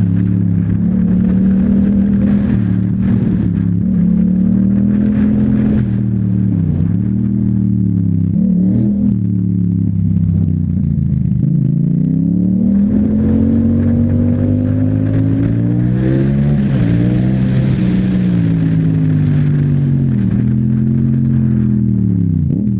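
Yamaha MT-07's 689 cc parallel-twin engine through an Akrapovic exhaust, under way and revving up and down through the gears. The engine note climbs under throttle, then drops sharply several times as the throttle is shut or a gear changes, and rises again.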